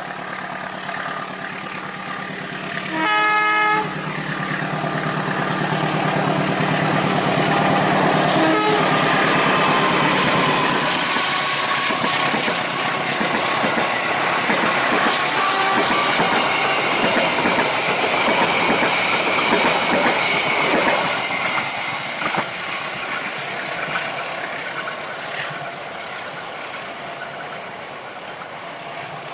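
A diesel locomotive hauling a passenger train sounds one horn blast of under a second, about three seconds in, its engine running as it approaches and passes. The passenger coaches follow, their wheels clattering over the rail joints, and the sound fades as the train moves away.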